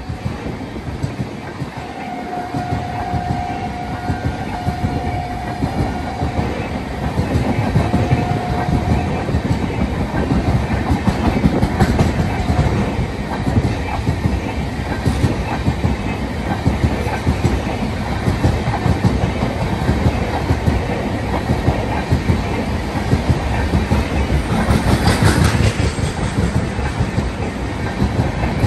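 A train passing close by, its wheels clattering over the rail joints and the noise building through the passage. In the first nine seconds a horn sounds three steady blasts.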